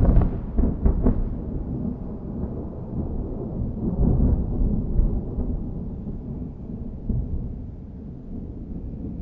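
Thunder rolling: a deep rumble, loudest at the start with a few sharp cracks in the first second, swelling again about four and seven seconds in and slowly fading.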